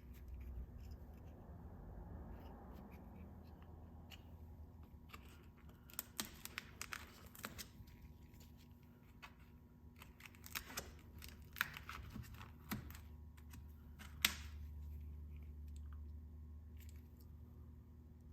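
Hands handling items from a pistol case: scattered sharp clicks and light rustling in small clusters, the loudest click about fourteen seconds in, over a low steady hum.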